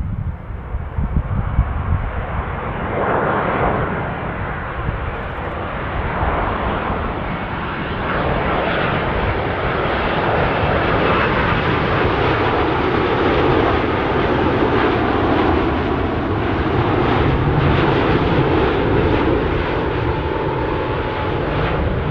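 Large jet airliner approaching to land, its engine noise building gradually into a loud, steady rushing sound with a faint high whine. Wind buffets the microphone underneath.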